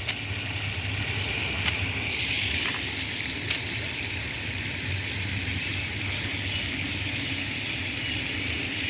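Steady outdoor background hiss with a constant high-pitched whine and a low hum, and a couple of faint ticks about two and three and a half seconds in.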